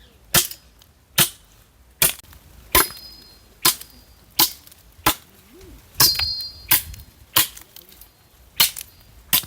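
Firewood being chopped: a steady series of sharp strikes, about three every two seconds, a few with a short metallic ring.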